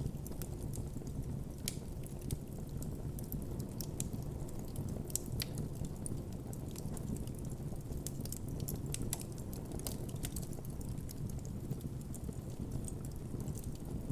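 Wood campfire burning with a steady low rumble of flames and frequent sharp crackles and pops from the burning wood.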